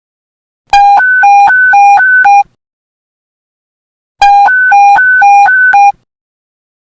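Police panic button alert tone: an electronic two-tone beep flipping between a low and a high pitch about four times a second, sounding in two loud bursts of under two seconds each, the second starting about three and a half seconds after the first.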